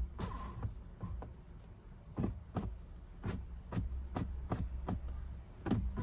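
Power window of a 2019 Ram 1500 being run up and down to check the glass clears a freshly fitted in-channel rain guard: a steady low hum with about ten irregular knocks and clicks.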